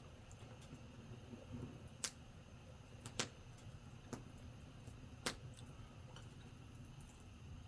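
Campfire wood crackling: four sharp, irregular pops over a low steady rumble of the fire.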